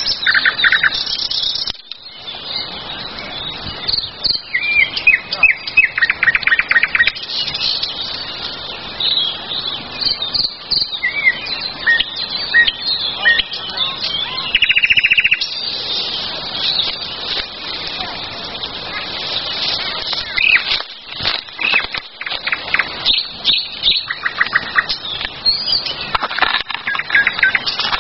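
Several wild birds singing at once: overlapping chirps, short whistled phrases and rapid trills. There are a few sharp clicks about two-thirds of the way through and again near the end.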